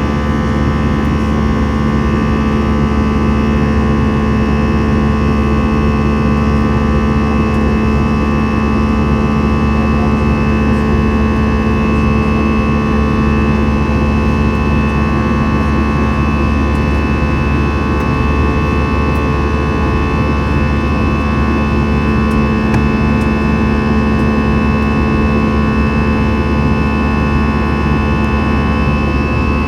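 Steady noise of an Airbus A321 airliner's jet engines and air rush, heard from inside the cabin: a constant hiss carrying several steady hums and whines, with no change in pitch or level.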